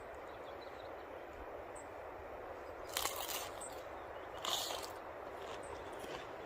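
Steady outdoor background hiss, broken by two short crunching rustles about three and four and a half seconds in, with a few fainter clicks near the end.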